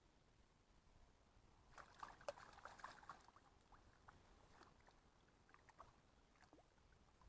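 Near silence, with a short patch of faint clicks and rustling about two to three seconds in and a few scattered ticks after it.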